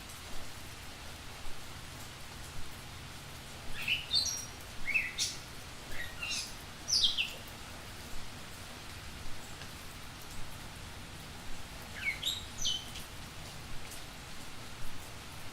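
Small bird chirping: short, high notes that slide downward, in a cluster about four to seven seconds in and another around twelve seconds, over a steady background hiss.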